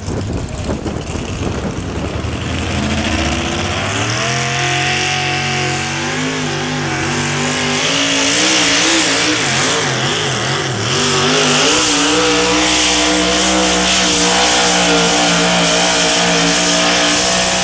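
Pulling tractor's engine revving up and running at high rpm under load during a tractor pull pass. The pitch rises steeply a few seconds in, holds high with some wavering, steps up again about halfway through, and stays at full rev.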